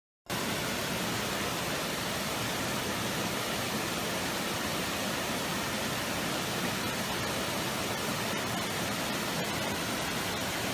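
A steady, even rushing hiss that cuts in abruptly from silence about a quarter second in.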